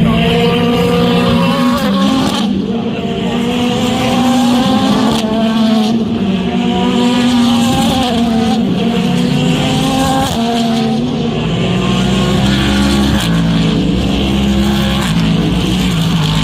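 Several race car engines running hard on track at once, their pitch rising and falling as they accelerate and shift gears.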